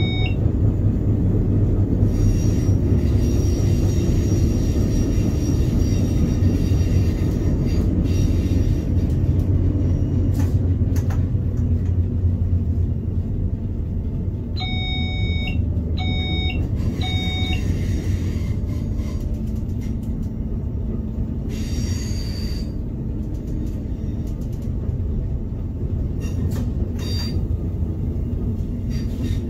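Inside a train driver's cab: the steady low rumble of the train running along the track, with a few brief clicks. About halfway through, the cab's electronic alert sounds three short beeps.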